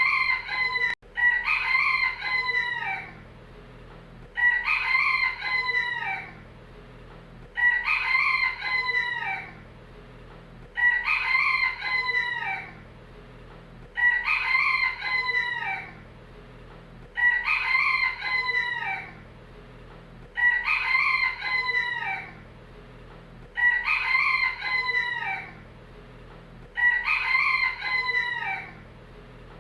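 Rooster crowing cock-a-doodle-doo, the same crow repeating at an even pace about every three seconds, each crow about two seconds long, over a faint steady background hum.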